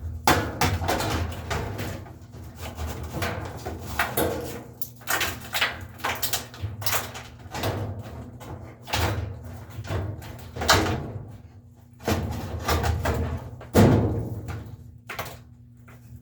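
Irregular knocking and clattering of hard parts and tools being handled, with a faint steady hum underneath.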